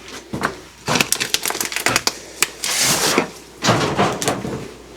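Soiled chicken-coop litter and droppings being scraped and scooped with a hand tool: a run of quick scrapes, knocks and clatters, with longer scraping sweeps about three and four seconds in.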